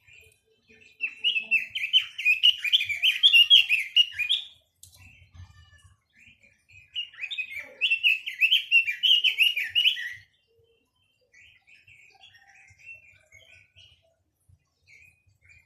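Quế lâm songbird singing: two loud phrases of rapid, warbling notes, each about three seconds long, with softer scattered chirps between and after them.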